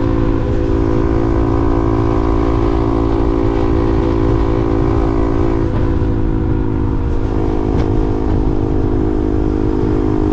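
A vehicle cruising at a steady speed, with an even engine drone and a heavy low rumble of wind on the microphone.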